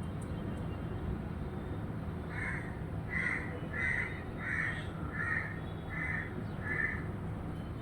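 A bird calling seven times in a steady series, about one and a half calls a second, over a steady low rumble.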